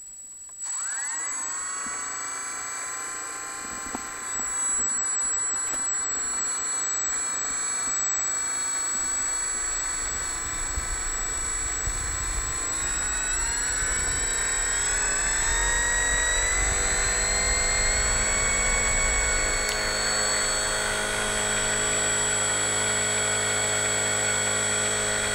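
Electric motor of a model Airco DH.2 spinning its propeller up. It starts suddenly and settles into a steady whine with a constant high tone, then speeds up to a higher pitch about halfway through and holds there.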